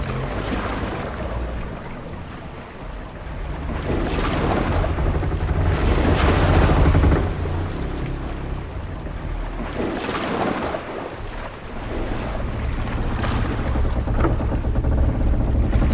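Ship at sea: waves washing and wind over a low rumble, swelling in surges and easing between them, with a few faint short knocks.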